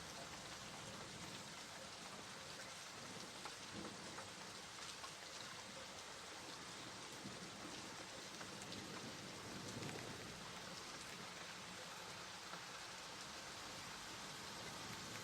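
Steady rain falling, a constant hiss of rain with many small drops ticking on a surface.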